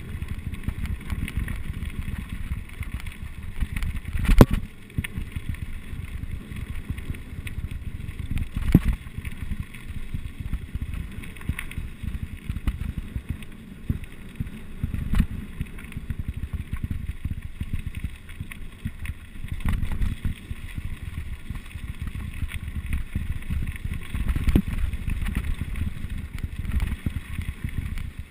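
Wind buffeting the microphone and the rattle of a mountain bike on a rough downhill trail, with sharp knocks about four, nine and twenty-five seconds in.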